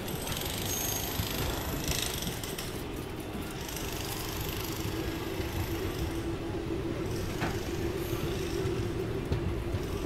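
Passenger train running, heard from inside a coach: a steady low rumble with a steady whine from the wheels that grows stronger about halfway through.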